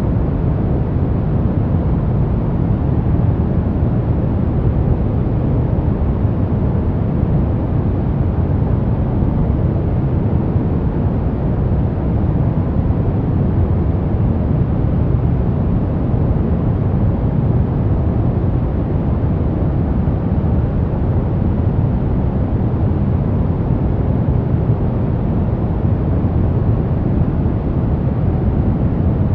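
Steady, unchanging white noise for sleep, weighted toward the low end so it sounds deep and rumbling rather than hissy, with no tones, rhythm or changes.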